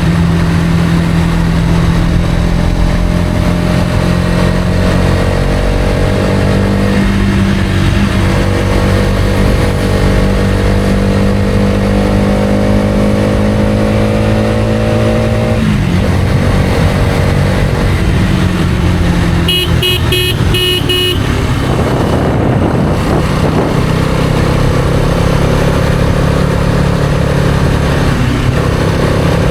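Karizma XMR motorcycle engine running under way, its pitch climbing slowly as it pulls and falling away about sixteen seconds in as the throttle eases. A quick series of short horn beeps comes about twenty seconds in, after which the engine picks up again.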